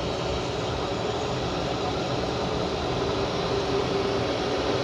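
Steady rumbling noise inside a Boeing 737-500 on the ground: its CFM56 engines running at low power, with air-conditioning hiss and the rumble of the airframe rolling.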